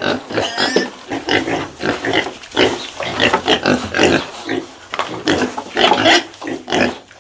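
Pigs grunting, many short, irregular calls in quick succession.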